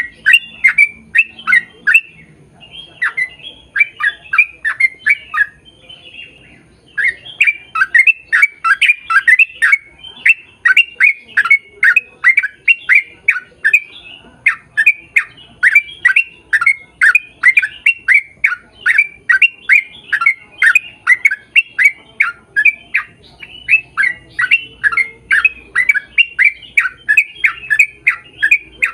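A bird calling with rapid, repeated chirps, about three a second, in long runs broken by a couple of short pauses.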